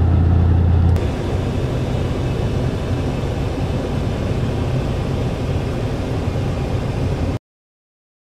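Steady engine and road noise of a moving vehicle, heard from inside the cabin, with a strong low hum. The sound changes abruptly about a second in and cuts off suddenly near the end.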